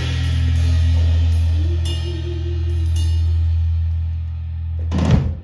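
Live rock band holding a long ending chord over a sustained bass note, with cymbal washes and a wavering guitar line, closing with a final loud hit near the end that cuts off sharply.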